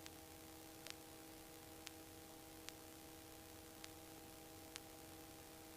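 Near silence: a faint steady electrical hum of several fixed tones, with soft ticks about once a second.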